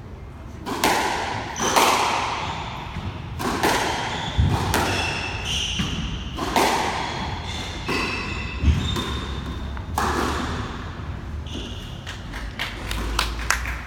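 Squash rally: the ball smacking off rackets and the court walls every second or two, each hit echoing, with short high squeaks of court shoes on the floor between the hits.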